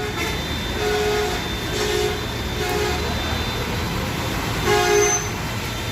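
A vehicle horn honks four times in short toots, the last and loudest near the end, over the steady low rumble of engine and road.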